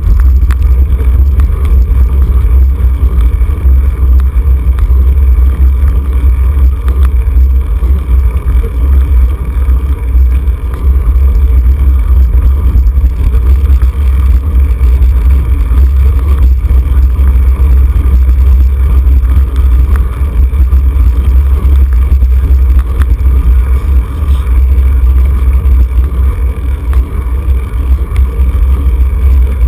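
Loud, steady low rumble of wind buffeting the microphone of a camera carried on a bicycle at racing speed.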